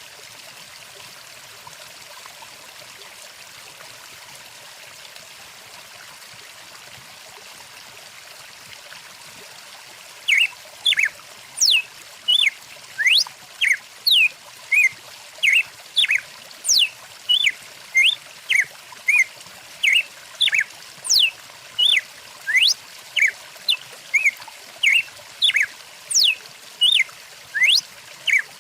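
Stream water running steadily. About ten seconds in, a songbird starts calling in short, sharp chirps that sweep up and down in pitch, about two a second.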